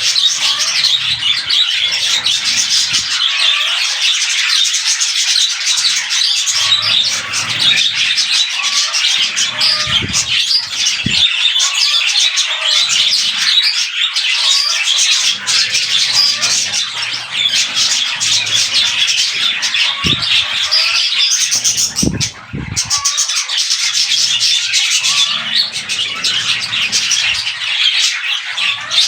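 A flock of budgerigars chattering and chirping continuously, many warbling calls overlapping at once, with a few faint knocks.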